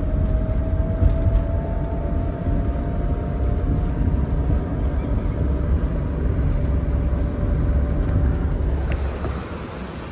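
Car on the move: a steady low engine and road rumble with a faint thin whine above it. The whine fades out and the rumble drops in level near the end.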